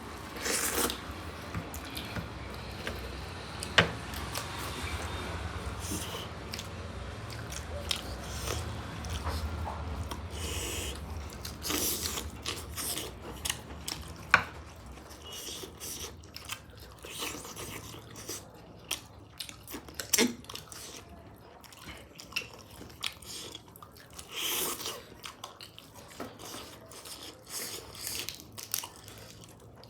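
A person chewing and eating food, with many irregular short eating noises and a few sharp clicks.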